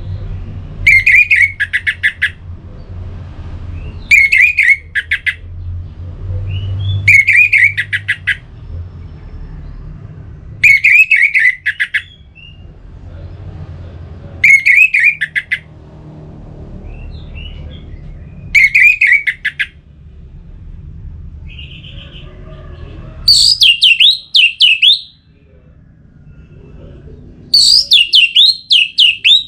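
Orange-headed thrush song: short phrases of rapid repeated notes, one about every three to four seconds, the last two higher-pitched. A low rumble runs underneath for most of the first two-thirds.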